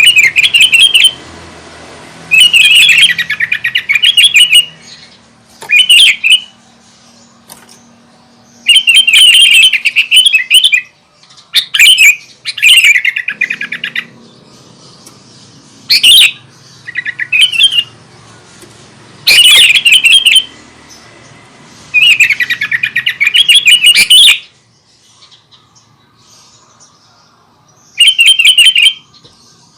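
Sooty-headed bulbul in full song, singing loud, quickly warbling phrases of about a second each, repeated with short pauses between.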